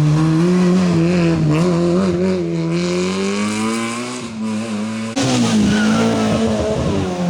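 Rally car engine at full throttle on a stage, its pitch climbing and wavering. About four seconds in it eases off, then comes back on the throttle with a sudden jump in loudness about five seconds in.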